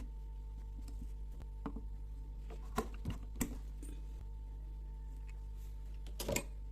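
Small carburetor parts handled on a workbench: a few light clicks and taps, then a brief louder rustle near the end, over a steady low hum.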